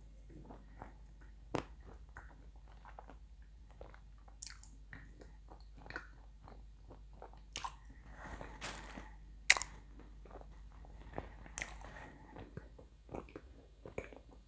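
Close-up chewing of dry edible clay: irregular sharp crunches and crackles as the chunks break between the teeth, the loudest about nine and a half seconds in.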